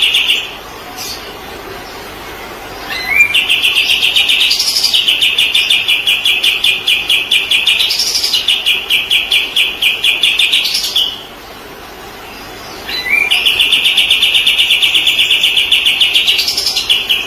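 Kapas tembak songbird singing long, rapid, evenly pulsed trills, each opening with a short rising note; one ends just after the start, a long one runs from about three seconds in to eleven, and another starts about thirteen seconds in.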